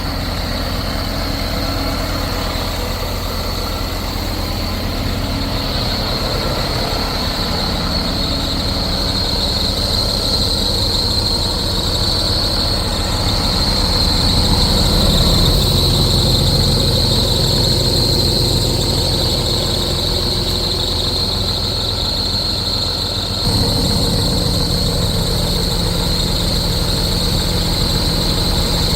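Scania R500 truck's diesel engine running steadily at idle, with a constant high-pitched whine over the rumble. About 23 seconds in, the engine note shifts abruptly and gets slightly louder.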